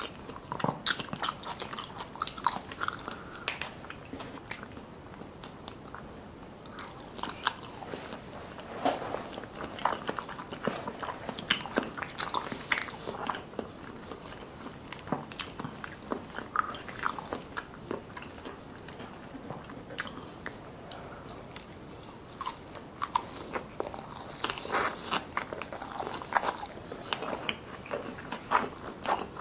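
Close-miked chewing with crisp, irregular crunches as fried soft-shell crab and sushi are eaten. The crunching is busier about a third of the way in and again near the end.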